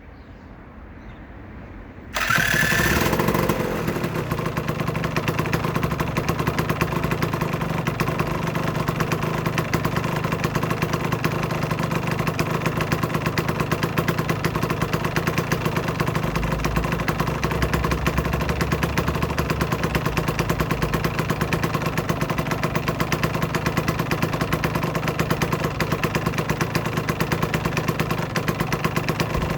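Aprilia RS125's single-cylinder two-stroke engine starting about two seconds in, revving briefly, then settling into a steady idle.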